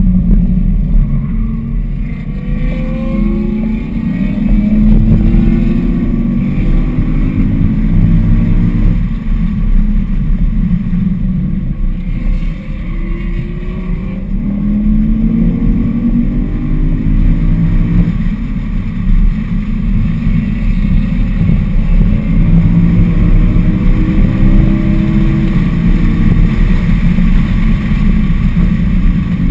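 BMW E92 M3's 4.0-litre V8 under hard acceleration, heard from inside the cabin with road and wind noise. The engine note climbs in pitch and drops back at each of several upshifts, then holds steady near the end.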